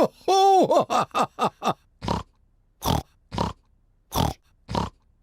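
Cartoon pig voice making pig noises: a short pitched call, then a quick run of about five snorts, then slower snorts spaced half a second to a second apart, repeated as if looped.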